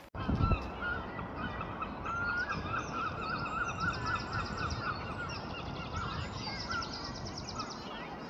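Birds calling outdoors, many overlapping calls: quick repeated rising-and-falling notes, then fast high trills near the end, over a steady low rumble. A low thump sounds about half a second in.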